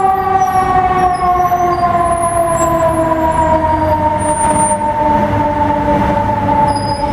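Fire truck siren sounding one long tone whose pitch falls slowly and steadily, over the low rumble of the truck and traffic.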